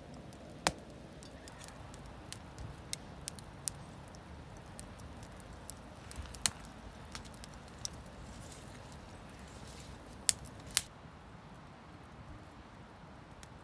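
Campfire wood crackling: irregular sharp pops and snaps, about a dozen, over a low steady background, the two loudest a little past ten seconds in.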